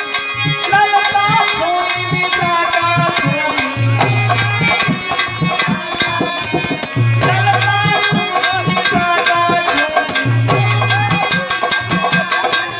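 Indian folk music: hand drums and a rattling shaker keep a fast beat under a wavering melodic lead, with a low bass note returning every few seconds.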